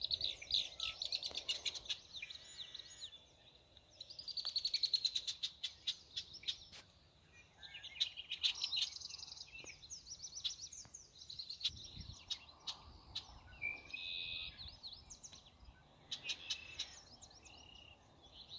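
Several songbirds singing and calling at once, with fast chirping trills and short whistled notes overlapping throughout.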